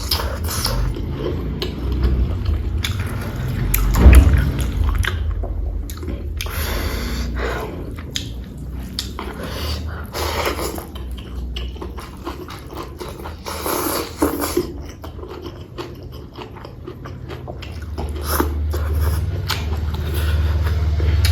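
Close-miked chewing and mouth sounds of someone eating rice and spicy pork curry: irregular wet smacks and small clicks, with a louder bite about four seconds in, over a steady low hum.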